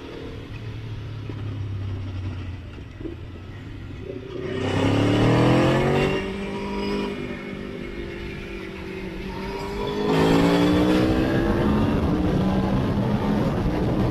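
Motorcycle engine on the move: running lightly for the first few seconds, then revving up under acceleration about four and a half seconds in, easing off near six seconds, and pulling hard again from about ten seconds, its pitch rising with each pull.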